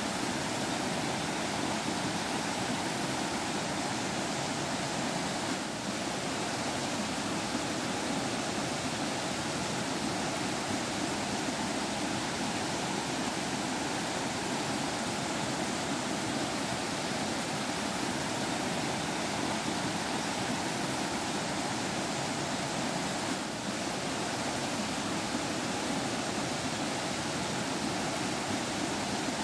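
Forest stream water flowing and babbling steadily, an even continuous rush, with two momentary slight dips in level.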